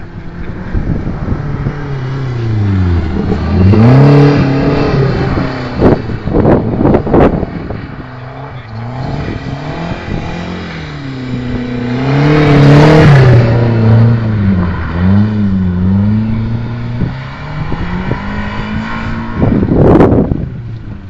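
Car engine driven hard, revving up and falling back again and again as it works through gears and turns. It is loudest about four seconds in and again around twelve to thirteen seconds in.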